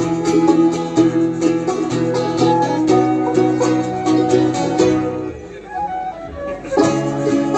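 A band playing an instrumental passage of folk music. The music drops away about five seconds in and comes back about a second and a half later.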